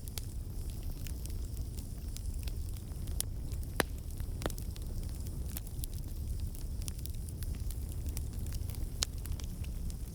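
Campfire burning: a steady low rumble with irregular crackles and sharp pops, the loudest pops about four seconds in and again near the end.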